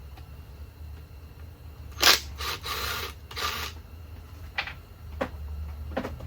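Tools and engine parts being handled during disassembly: a sharp click about two seconds in, then a second and a half of scraping and rustling, then a few light clicks, over a steady low hum.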